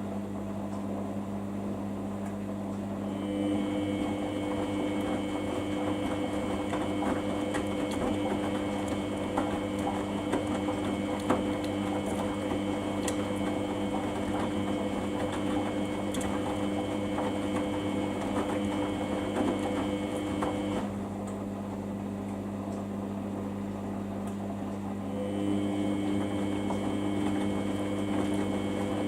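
Samsung washing machine running partway through a Daily 40 wash: a steady hum with a motor whine of constant pitch that starts a few seconds in, drops out for a few seconds about two-thirds of the way through, then starts again.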